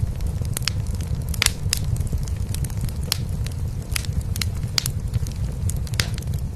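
Cat purring in a steady low rumble, with a wood fire in a fireplace crackling over it in scattered sharp pops.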